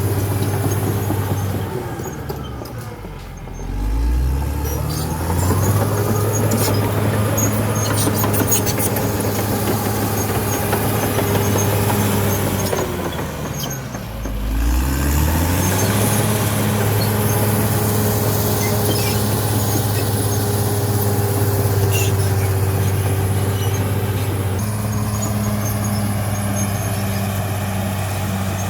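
CAT D6R XL bulldozer's diesel engine running steadily under load. Twice, about three seconds in and again about fourteen seconds in, the revs drop and then climb back up. A few sharp metallic clicks come about eight seconds in.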